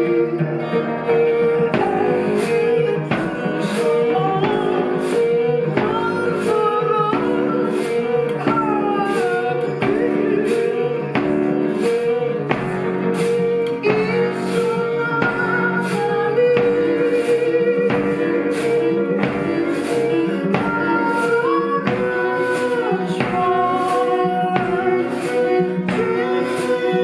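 Live ensemble music with a steady pulse: a repeating low figure under a higher moving melody, with regular percussive strikes.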